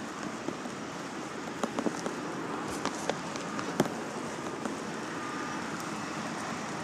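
Steady hiss of rain, with a few sharp taps of drops landing close by.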